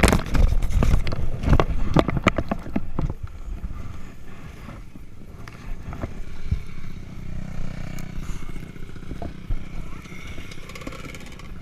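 Dirt bike crash: a burst of loud knocks, scrapes and clatter over the first three seconds, then a motorcycle engine running low and steady.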